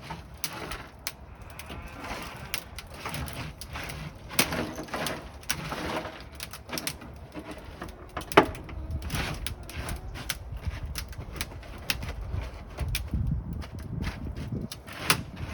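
Car sound deadening crackling with scattered sharp cracks and pops as it freezes under a dry ice and isopropyl alcohol slush: the sign of the deadening lifting off the sheet metal.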